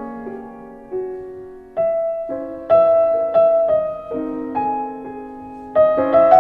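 Background music: a slow, gentle piano piece, chords and single notes struck and left to ring and fade.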